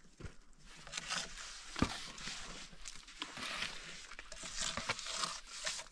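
Rustling and scraping with scattered sharp clicks, and one louder knock about two seconds in.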